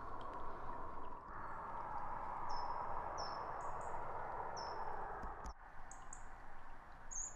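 A small songbird giving a series of short, high chirps, most sliding downward, over a steady outdoor background hiss.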